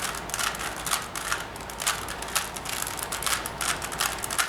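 3x3 Rubik's Cube being turned by hand during a solve: the plastic layers click and clack in a quick, irregular run of sharp clicks.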